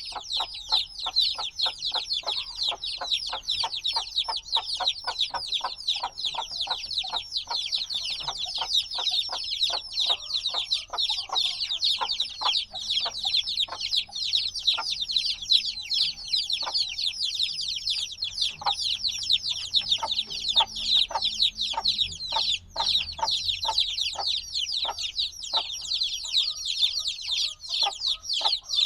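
A brood of chicks a few days old, chirping constantly in a dense, overlapping chorus of high, short, downward-sliding peeps, noisy as they call for the warmth of the mother hen.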